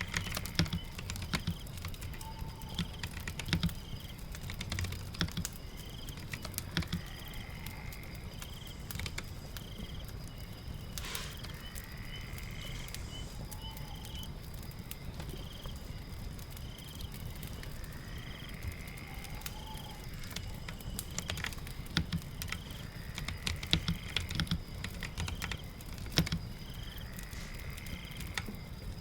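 Computer keyboard typing in scattered bursts of key clicks over a steady patter of rain.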